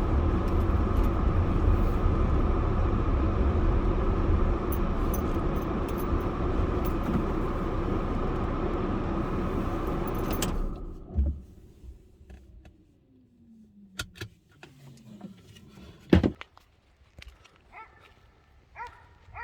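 Steady rumble of a car driving, engine and road noise together, that cuts off abruptly about ten seconds in. After it there is quiet outdoor ambience with a few sharp clicks, one of them loud, and a low tone falling in pitch.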